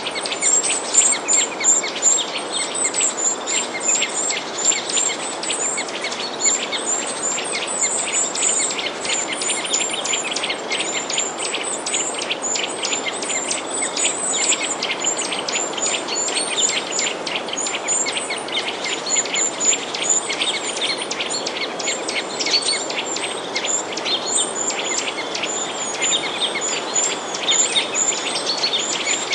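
Many small birds chirping, with short, high chirps overlapping in a dense, continuous chorus over a steady background hiss.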